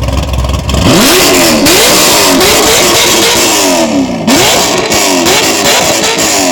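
Car engine with a loud aftermarket exhaust, idling and then revved hard about a second in, blipped up and down several times in quick succession, settling back toward idle at the end.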